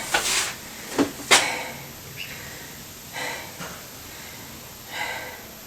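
Two sharp knocks about a second in, then a man's heavy breaths, short rushes of air a couple of seconds apart, while he strains at refitting a motorcycle engine by hand.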